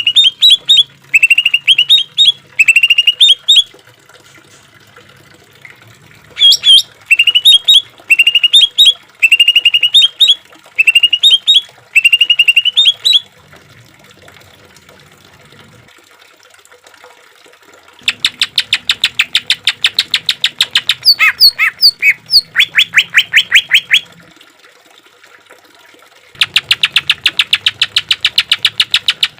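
Green leafbird (cucak ijo) singing: a string of short rising whistled phrases, each about half a second long. After a pause comes a fast run of repeated harsh notes, about ten a second, which starts again near the end.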